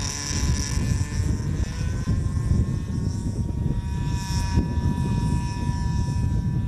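Small model-airplane engine and propeller running at high speed in a steady high-pitched drone, the pitch rising a little early on and then holding.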